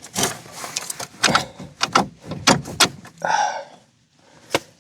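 Irregular metallic clanks and clicks of hand tools and suspension hardware being handled, with a short rattle a little past three seconds in and one sharp click near the end.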